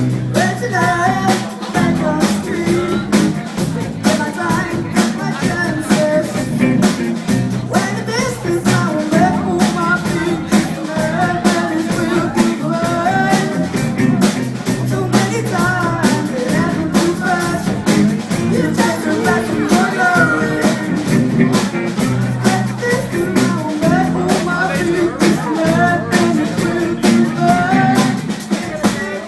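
Young rock band playing live: electric guitar, bass and drum kit driving a steady beat under a sung vocal line.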